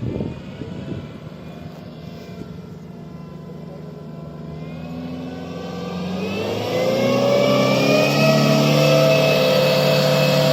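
Diesel 4x4 SUV engine pulling in soft ground, running low for the first few seconds, then revving up from about six seconds in and holding high revs under hard throttle.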